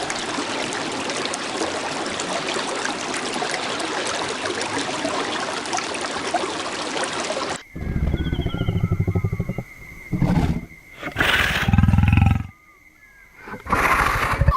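A steady hiss for the first half, cut off abruptly, followed by a big cat roaring: four loud, low, pulsing calls with short pauses between them, and faint bird chirps in the gaps.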